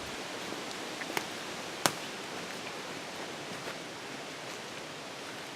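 Steady hiss of rain in woodland, with two or three sharp clicks a little over a second in and just before two seconds, the last the loudest.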